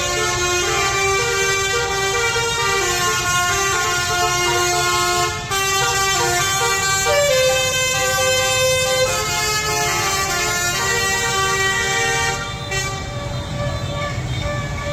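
Many horns blaring at once in long, overlapping blasts that shift pitch now and then, over a dense rumble of street traffic and crowd.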